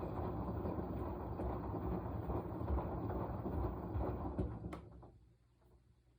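Washing machine drum turning with laundry and water churning in it, a dense uneven rumble that dies away about five seconds in, leaving only a faint low hum as the drum pauses.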